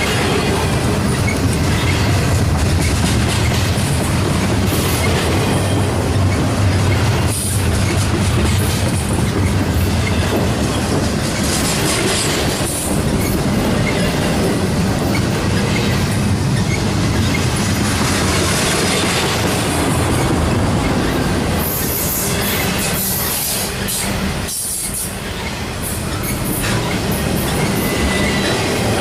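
Double-stack container cars of a freight train rolling past, a steady heavy rumble with wheels clacking over the rail joints and a few brief high-pitched bursts.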